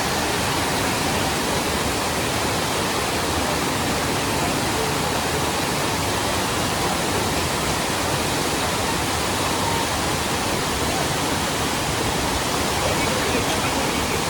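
Steady rush of water falling at Aber Falls (Rhaeadr Fawr), a 37-metre waterfall: an even, unbroken noise that holds level throughout.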